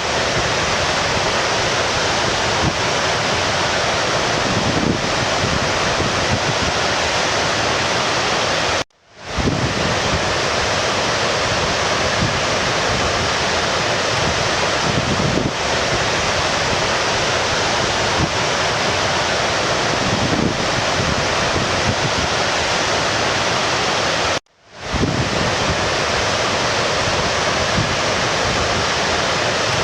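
Steady rushing of stream water. It cuts out abruptly twice, about nine seconds in and again near twenty-four seconds, each time fading back in within half a second.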